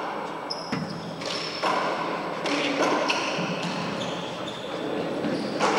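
Handball rally in a four-wall court: the hard rubber ball smacks off hands and walls several times, each hit echoing in the enclosed court, with sneakers squeaking on the floor between hits.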